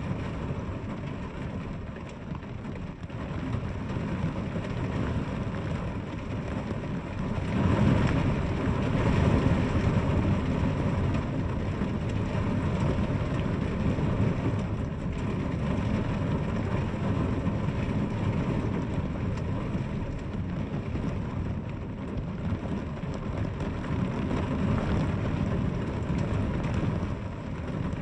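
Steady rain falling, with a low rumble underneath that swells about eight seconds in and eases off again.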